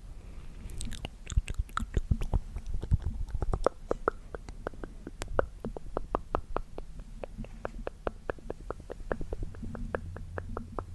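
Close-miked ASMR mouth sounds: a quick, even run of small wet clicks, about four or five a second, over a low rumble.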